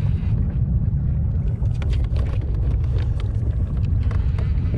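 Wind rumbling over the microphone on open water, with a scatter of short sharp clicks and knocks through the middle of the stretch.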